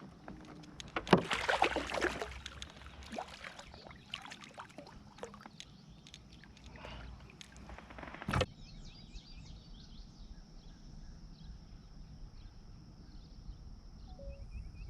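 Water splashing and knocking around a kayak, loudest a second or two in, with one sharp knock on the hull about eight seconds in. Faint repeated high chirps follow the knock.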